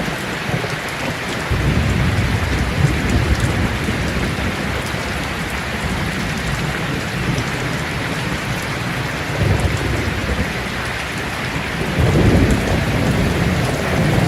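Heavy rain drumming steadily on a tin roof, with rolls of thunder rumbling in low: one swells up about a second and a half in, another near the middle, and a louder one near the end.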